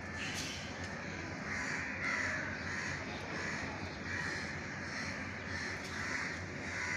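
Crows cawing again and again, harsh calls coming about once a second.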